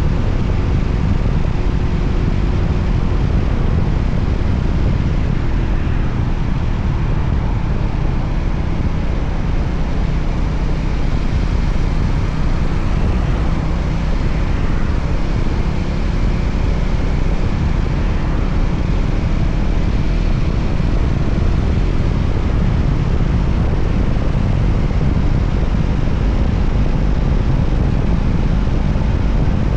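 Voge 300ACX motorcycle's single-cylinder engine running at a steady pace while riding, mixed with heavy wind rush on the microphone.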